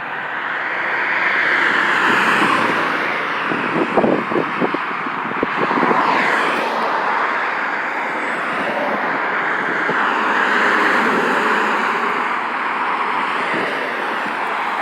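Road traffic passing: tyre and engine noise swelling as a vehicle goes by about two seconds in and another around ten seconds in, with a few short knocks about four to five seconds in.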